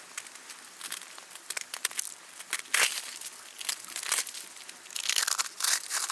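Close, irregular rustling and crinkling in uneven bursts with sharp clicks, loudest about three seconds in and again near the end.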